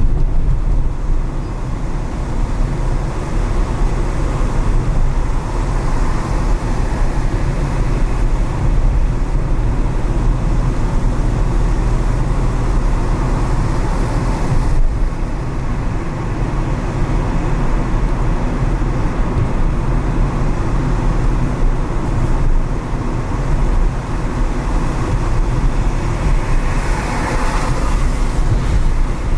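A car driving on city streets: a steady low rumble of engine and tyres on the road, with a brief rise of hissing noise near the end.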